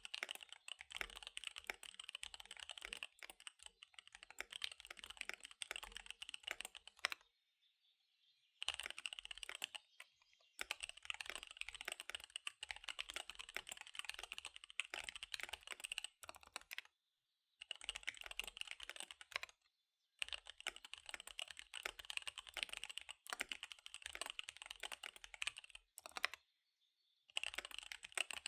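Fast typing on a KBD75 V3 mechanical keyboard with SP-Star Dark Magic Girl tactile switches and DSA keycaps: rapid runs of key clacks, broken by about five brief pauses.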